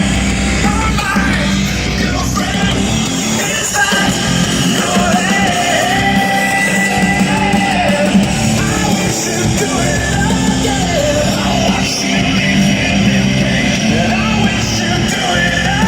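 Loud rock music with heavy guitars and yelled, sung vocals playing through a car stereo.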